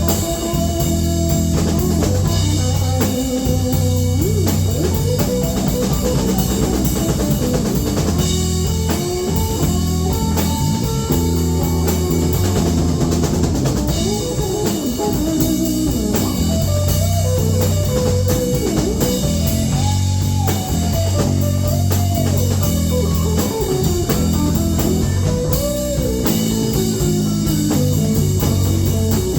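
Live blues band playing an instrumental break: a guitar lead line with bending, gliding notes over drum kit and steady low bass.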